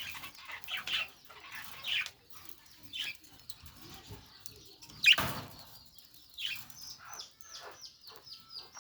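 Budgerigar chirping in short bursts, with a loud brief noise about five seconds in. In the last few seconds the calls turn into a quick run of short falling chirps.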